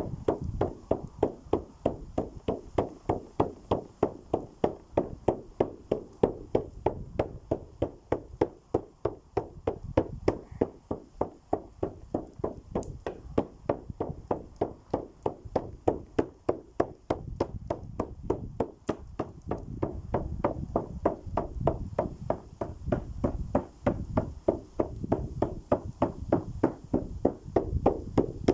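Steady, even drumbeat at about three strikes a second, unbroken, over a low rumble.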